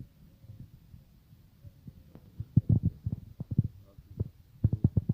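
Soft, low thumps and knocks in two quick clusters, one about halfway through and another near the end, over a faint steady hum.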